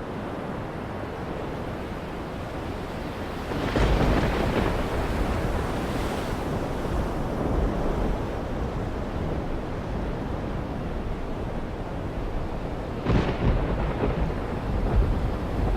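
Steady low rumbling, rushing noise that swells louder about four seconds in and again about thirteen seconds in.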